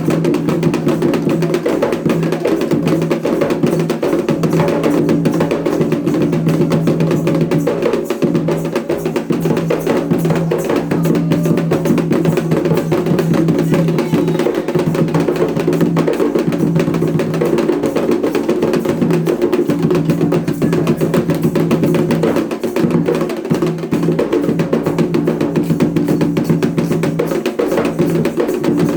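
Candomblé ceremonial drumming: hand drums played in a fast, steady rhythm, with a sharp clacking beat over them.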